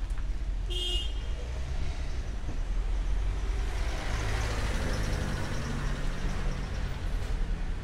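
A motor vehicle passing by on the street, its engine and tyre noise swelling to a peak about four to five seconds in and then fading, over a steady low traffic rumble. A short high-pitched tone sounds about a second in.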